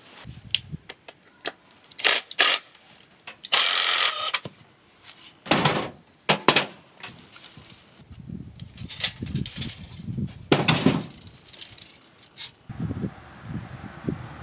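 Irregular clicks, knocks and clatter from things being handled, with a short hissing scrape about three and a half seconds in, and a low rumble building in the last few seconds.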